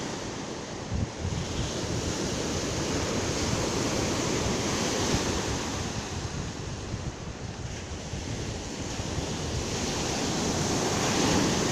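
Sea surf washing onto the shore, with wind buffeting the microphone; the wash swells louder near the end.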